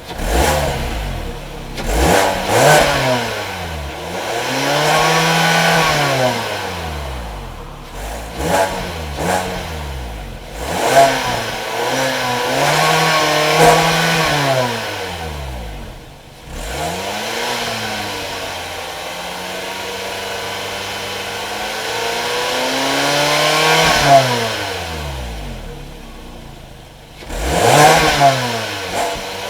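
2011 Kia Sportage's 2.4-litre DOHC four-cylinder engine revved repeatedly from idle, in quick blips and longer revs that rise and fall. One slow climb comes late, and the engine drops back to idle between revs.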